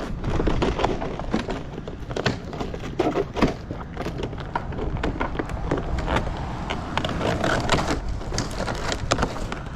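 Vinyl siding being worked loose and pulled off a wall: a run of irregular clicks, knocks and plastic rattles.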